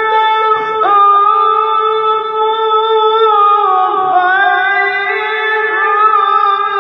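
High, shrill male voice in melodic Quran recitation (tilawah), holding one long note without a break for breath. About halfway through it slides a little lower and wavers in ornaments.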